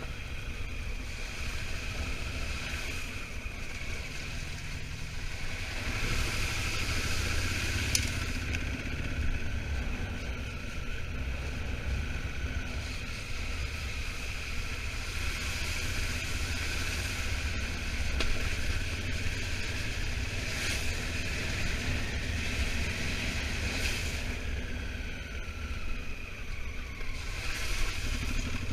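Honda Africa Twin motorcycle riding at road speed, with wind buffeting the microphone over the steady drone of the engine. Near the end the engine note falls and the sound eases as the bike slows.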